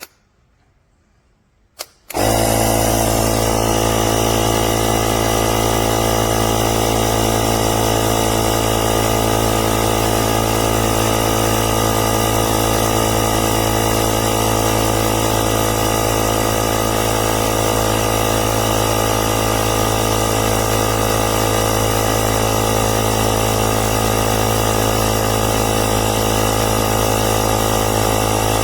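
AUTDER cordless portable tyre inflator switched on with a couple of clicks, its compressor starting about two seconds in and then running steadily at an even pitch.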